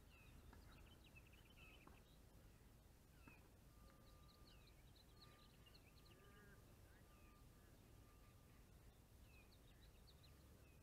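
Near silence with faint small-bird chirps and calls scattered throughout, and a thin steady high note holding through the middle.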